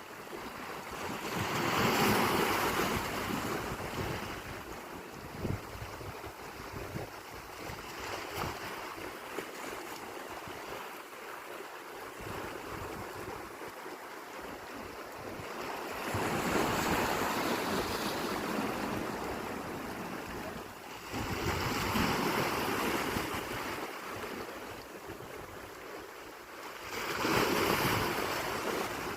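Sea waves surging in and breaking, swelling louder four times a few seconds apart over a steady wash of surf, with wind buffeting the microphone.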